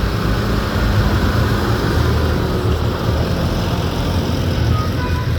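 Tractor engines running with a steady low rumble as the parade passes.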